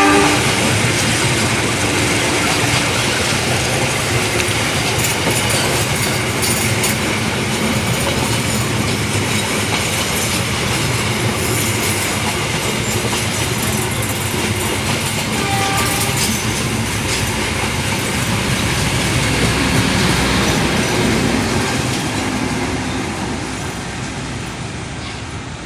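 Passenger train running past at close range, its wheels clattering over the rail joints in a steady loud rumble that eases off over the last few seconds.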